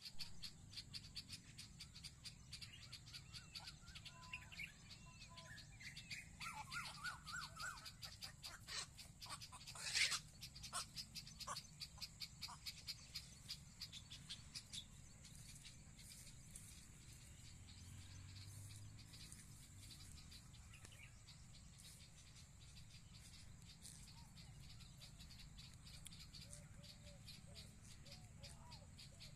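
Faint, rapid chirping of small wild birds, thickest in the first half, with one louder sharp chirp about ten seconds in, then thinning out.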